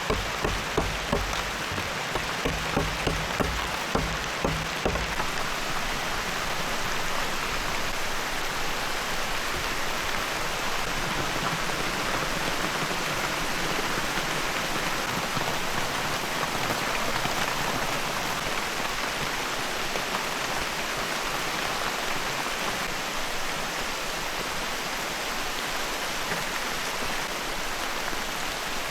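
Heavy rain falling steadily. Over the first five seconds or so it is joined by a run of regular knocks, about two or three a second, which then stop.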